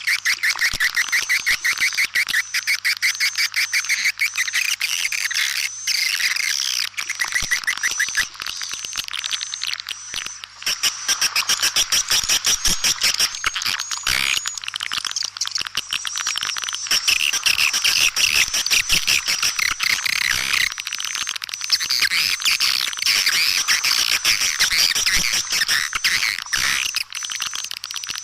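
Swiftlet lure call (suara panggil walet) of several edible-nest swiftlets: dense, continuous rapid chittering and buzzy twittering with repeated high notes. It is the kind of call played to draw swiftlets into a nesting house.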